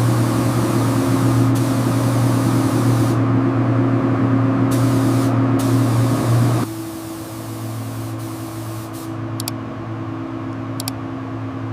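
Air spray gun hissing as it sprays a coat onto car bodywork, over a strong steady low hum that drops sharply in level about six and a half seconds in. A couple of faint clicks near the end.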